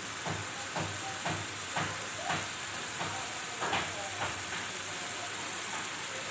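Thick spice paste (masala) sizzling and bubbling as it is fried down in oil in a frying pan: a steady hiss with soft pops about twice a second through the first four seconds, fewer after that.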